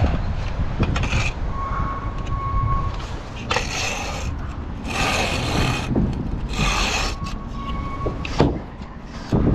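Steel brick trowel scraping and working mortar in several strokes about a second long, over a low rumble of wind on the microphone.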